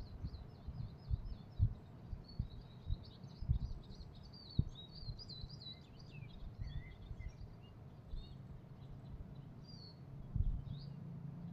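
Small songbirds chirping and twittering in quick high trills, busiest in the first half and thinning to scattered calls later, over a low rumble with occasional soft low thumps.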